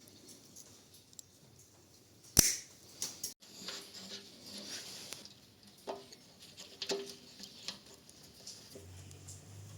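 Scattered clicks and light knocks, with one sharp knock about two and a half seconds in and a faint low hum near the end.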